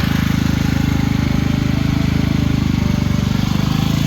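Predator portable generator's small engine running steadily at close range, a continuous even hum. The unit is battered, with parts broken or missing, yet keeps running.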